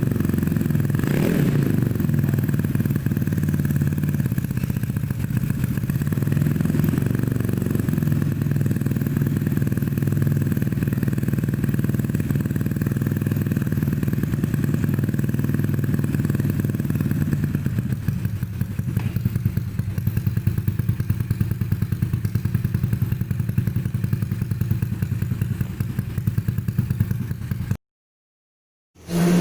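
Bored-up 200 cc Yamaha Mio scooter engine idling through a free-flow Tridente Ronin Katana racing exhaust during its cold warm-up, with a short throttle blip about a second in. After about 18 s the idle settles lower and more uneven, and the sound cuts off abruptly near the end.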